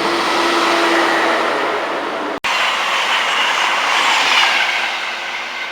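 Train running past on the station tracks: a loud rush and clatter of wheels on rail, broken by a split-second dropout about two and a half seconds in, then fading near the end.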